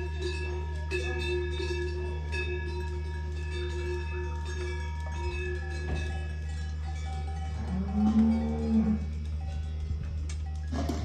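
Cowbells clanking and ringing on grazing cattle, over a steady low hum. A cow moos once about eight seconds in.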